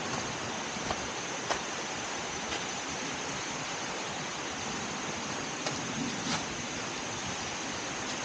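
Steady rush of flowing water from a waterfall stream, with a few faint clicks.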